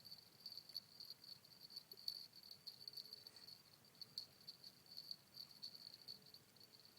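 Faint, steady chorus of insects chirping, a high-pitched pulsing trill that keeps on without a break.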